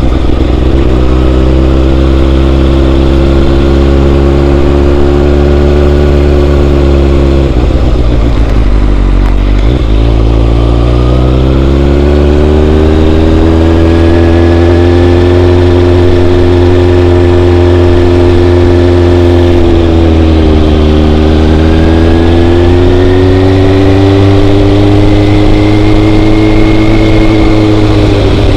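Motorcycle engine running under way at steady speed, loud and close. Its pitch drops about eight seconds in and again about twenty seconds in, each time climbing back as the bike pulls away again.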